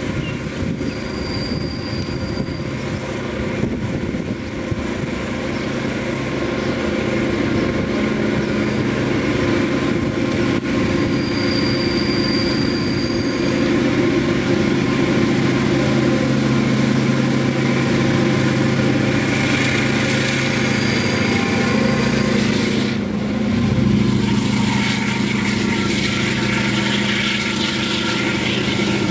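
Diesel-electric freight locomotive running under power as it approaches and passes, a steady low engine drone. About three-quarters of the way through the drone changes and the container wagons roll by with wheel and rail rattle.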